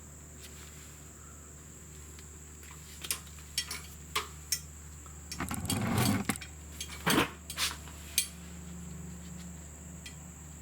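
Metal brake caliper parts clicking and clinking as they are worked by hand, with a louder rattle about halfway through; the slide in the old mounting bracket is stuck and not moving freely. Crickets chirp steadily underneath.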